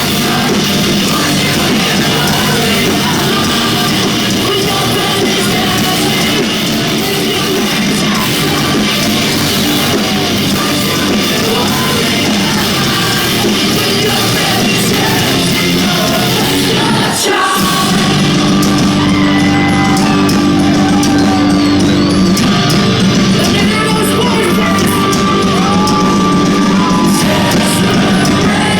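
Loud live rock music from a post-hardcore band, with singing and shouted vocals over the band. About two-thirds of the way through, the music drops for a moment, then moves into a new section with held notes.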